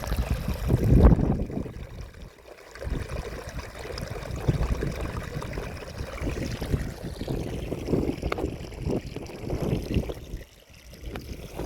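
Wind buffeting the microphone in uneven gusts, a low rumbling noise that dips briefly twice.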